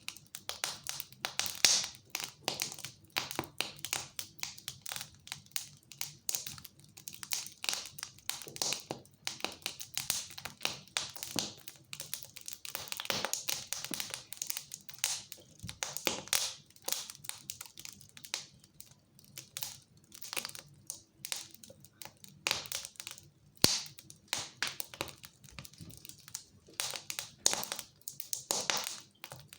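Wood fire crackling in a fireplace: irregular pops and snaps, thick and fast, over a soft hiss.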